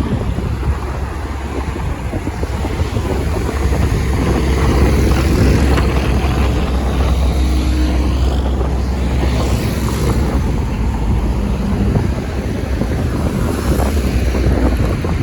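Road traffic noise with wind buffeting the microphone: a steady low rumble, with a vehicle passing about eight to ten seconds in.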